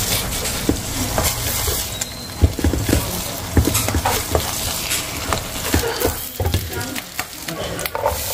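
Beaten egg frying in hot oil in a nonstick wok, sizzling and crackling steadily, while a spatula scrapes and cuts through it against the pan in repeated short strokes.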